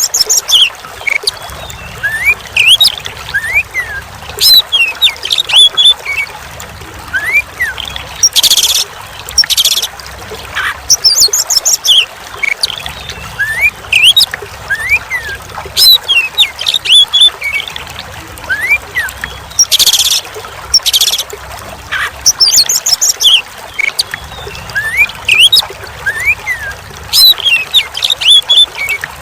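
Oriental magpie-robin (kacer) singing over and over, loud varied phrases of rising and falling whistled notes and fast trills, over a steady sound of trickling water.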